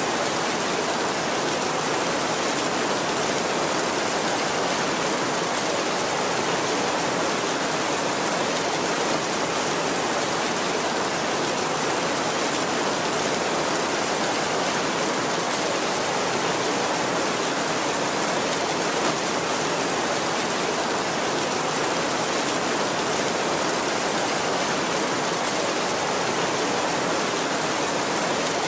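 Heavy rain falling steadily on a tin roof, an even, unbroken hiss with no thunder in it.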